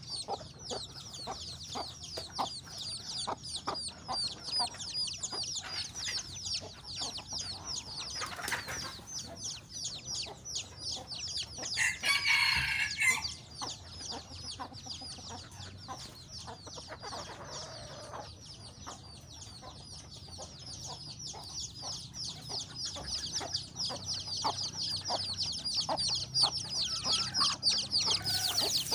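Chickens in a yard flock: many high peeps running on without a break, with clucking. One loud, drawn-out call about twelve seconds in.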